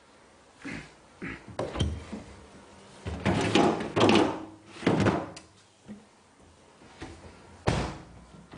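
A series of short thunks and knocks from a built-in refrigerator's doors and freezer drawers being opened and shut, with a sharper knock near the end.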